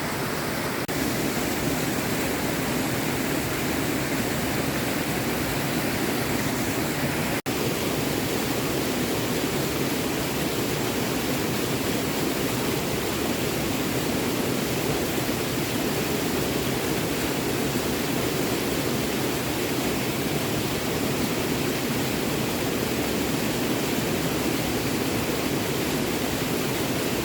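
Small stream flowing, a steady rush of water, with a momentary break in the sound about seven seconds in.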